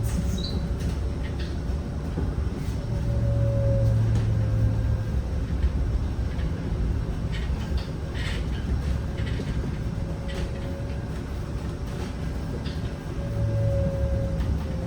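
Inside a Zhongtong N12 electric bus on the move: steady low road and drivetrain rumble under a thin motor whine that swells twice, about three seconds in and again near the end, with scattered light rattles from the cabin.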